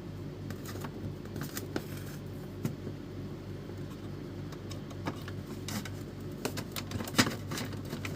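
Disassembled Epson L310 inkjet printer powering up and running its start-up cycle: a steady low hum from the mechanism with scattered sharp clicks from the carriage and gears.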